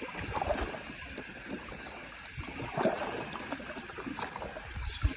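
Water splashing and trickling around a kayak, with two louder splashes about half a second and three seconds in.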